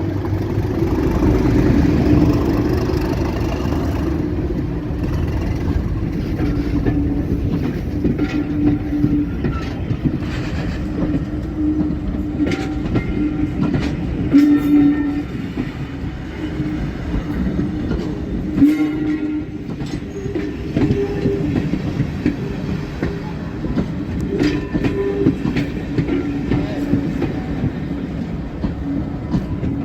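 Diesel-hauled heritage train running, its engine's steady drone rising and falling over the rumble of the carriages, with irregular clicks of the wheels over rail joints.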